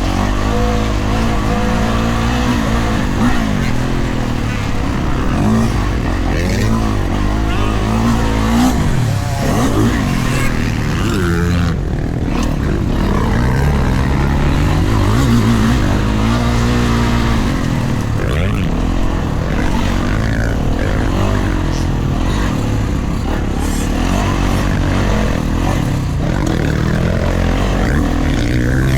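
Kawasaki KX450 four-stroke single-cylinder dirt bike engine being ridden hard around a motocross track, its revs rising and falling over and over as the throttle opens and closes.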